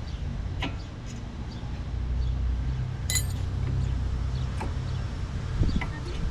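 A few light clicks and one sharp, ringing metal clink about three seconds in, typical of tools or brake parts being handled, over a steady low rumble.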